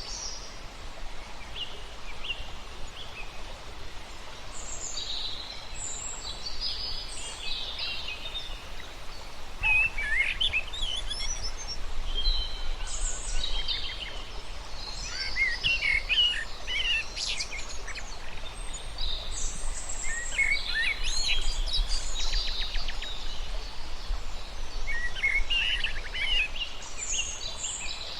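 Several birds chirping and calling in quick, overlapping bursts, with a steady low background rumble underneath.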